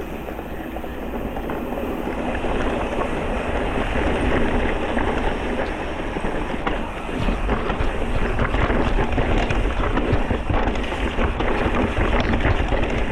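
Electric mountain bike riding over a rough trail: tyres rolling on rock and gravel and the bike rattling over the bumps, with wind buffeting the microphone. It grows louder over the first few seconds.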